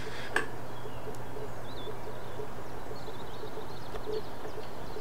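Outdoor ambience with faint bird chirps over a steady low hum, and one short click just after the start.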